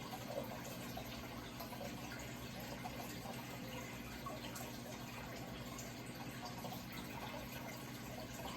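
Steady running water, trickling and splashing without a break, with a faint low hum underneath.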